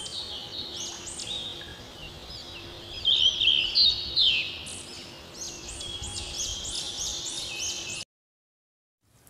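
Small birds chirping and twittering, many quick high calls overlapping, loudest about three to four and a half seconds in. The birdsong cuts off suddenly about eight seconds in.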